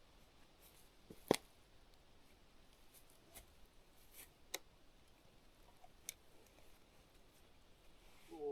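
A few sharp, isolated clicks over a quiet background: one loud click about a second in, then three fainter ones spread over the next five seconds.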